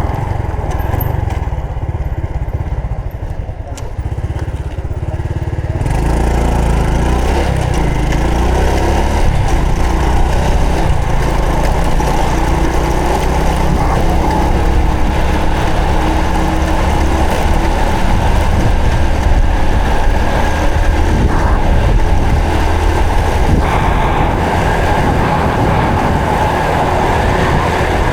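Honda Supra X 125 FI motorcycle's single-cylinder four-stroke engine running while being ridden. It is quieter for the first several seconds, then louder and fuller from about six seconds in.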